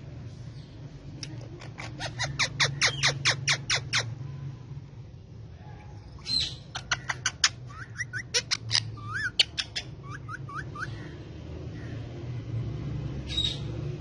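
Indian ringneck parakeet giving rapid runs of shrill, repeated calls, about five or six a second, then a few short sweeping calls and one last call near the end, over a steady low hum.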